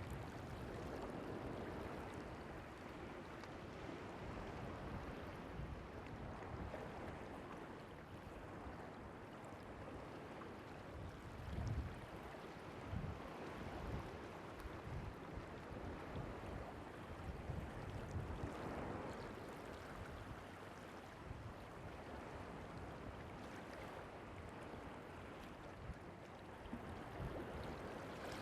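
Sea waves washing on the beach, a steady rushing hiss that swells and falls, with gusts of wind buffeting the microphone now and then.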